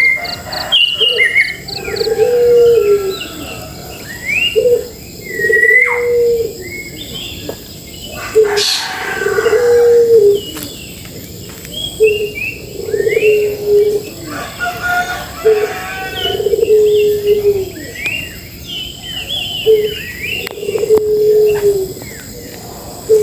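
Several birds calling together: a low cooing note, each about a second long and dropping slightly at the end, repeats roughly every second and a half over many short, rising, higher chirps.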